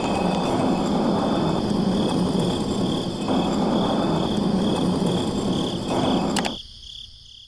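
Small electric motor of a homemade miniature concrete mixer running steadily, turning its drum. It is switched off with a click about six seconds in and winds down.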